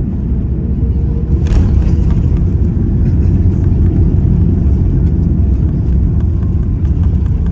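Steady low rumble of a vehicle in motion, heard from inside, with a brief faint rattle about a second and a half in.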